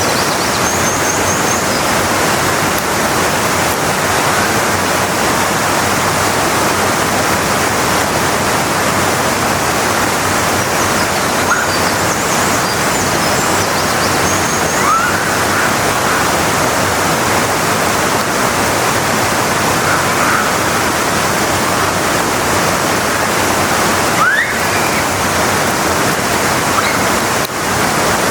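Waterfall at Kamba Falls rushing, a steady loud noise of falling water, with a few faint short calls heard over it.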